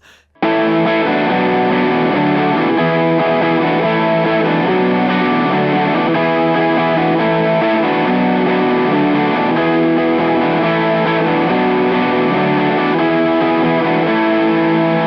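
Electric guitar with P90 pickups played through an Olinthus Cicada overdrive pedal, a TS808 Tube Screamer-style circuit, playing an overdriven riff. It comes in sharply about half a second in.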